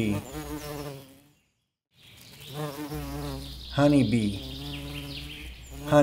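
Honeybee buzzing in flight, a steady hum of beating wings. It breaks off about a second in and starts again about two seconds in.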